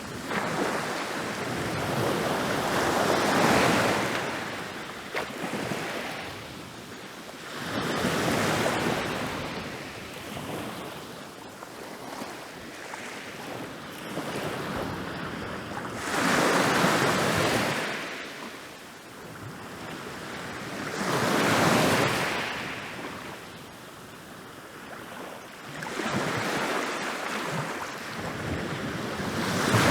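Ocean waves rolling in and breaking on a beach, about five surges, each rising into a rushing wash and fading over a few seconds.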